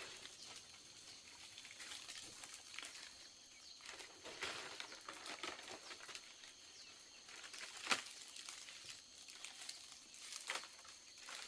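Light rustling with scattered clicks and knocks, one sharp knock about eight seconds in, over a faint steady high insect-like drone.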